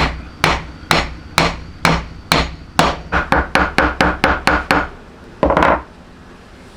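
Hammer blows on wood, about two a second, then quickening to about four or five a second for a couple of seconds; a brief rougher burst follows near the end before the blows stop.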